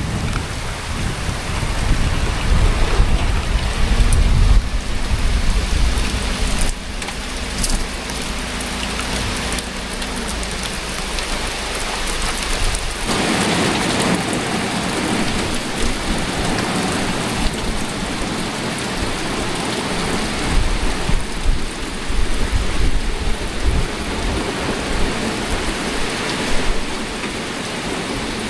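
Heavy rain pouring down in a thunderstorm, with a low rumble in the first few seconds; the downpour gets denser about halfway through.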